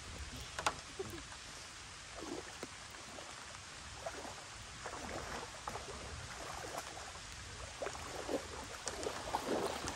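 Lake water sloshing and splashing around a person's legs as she wades out from the shore, the splashes coming every second or so and a little louder near the end, over a steady hiss of light rain. A single sharp click about half a second in.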